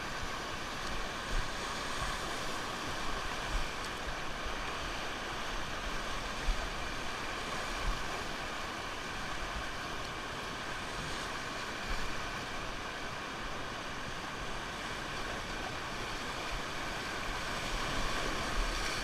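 Rushing river water making a steady roar, with wind buffeting the microphone in brief low thumps.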